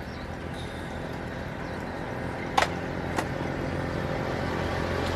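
A motor engine running steadily and slowly growing louder, with two short sharp clicks about two and a half and three seconds in.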